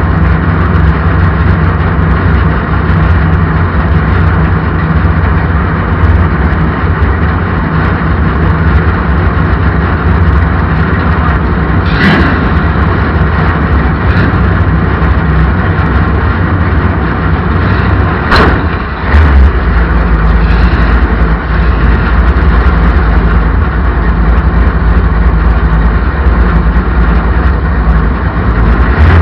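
Race car engines running loud and steady around an oval track, with two sharp clicks about twelve and eighteen seconds in.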